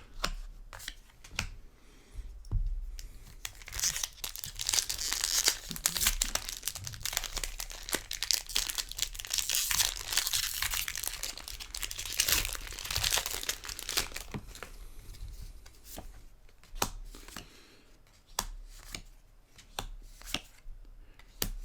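A Magic: The Gathering booster pack's foil wrapper being torn open and crinkled, a dense crackle for several seconds, followed by a run of light scattered clicks near the end.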